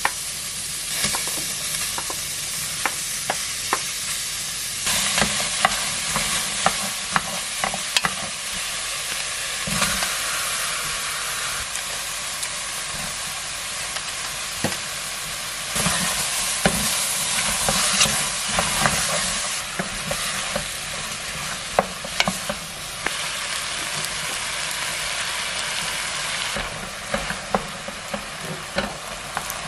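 Diced onion, potato, mushrooms and beef sizzling as they sauté in butter in a pot, with a steady frying hiss and frequent clicks and scrapes of a wooden spatula stirring against the pot.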